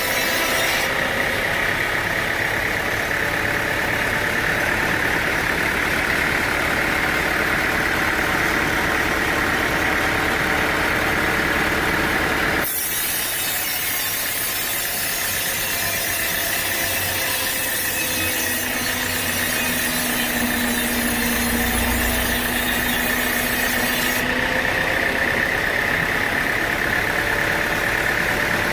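Sawmill saw machinery running steadily with its blade working through wood. The sound changes abruptly about thirteen seconds in and again about twenty-four seconds in.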